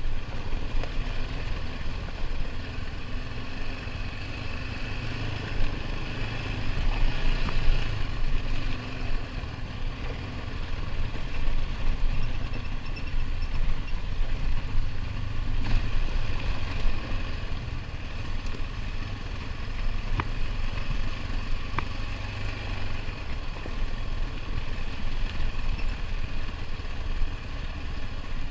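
ATV engine running steadily while riding a dirt trail, with a few sharp clicks partway through.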